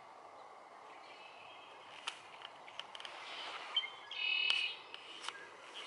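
A bird calls in the woods: a short call about a second in, then a louder, longer call about four seconds in. Scattered sharp snaps of footsteps on dry leaves and twigs sound through it.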